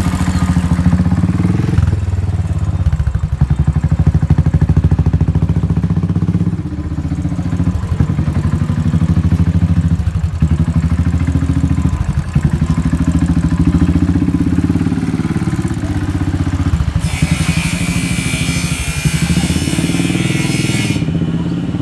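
Custom-modified Royal Enfield Thunderbird 500 single-cylinder engine running just after starting, idling with a fast thumping beat and rising in pitch now and then as the throttle is blipped. A hiss joins in for a few seconds near the end.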